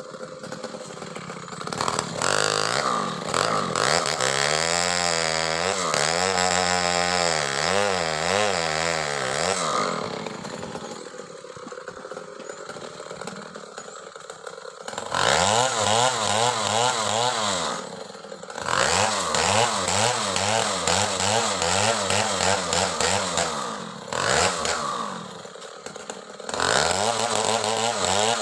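Stihl two-stroke chainsaw ripping through a coconut palm trunk. It revs up to full throttle for several seconds at a time and drops back to a lower idle between cuts, repeatedly.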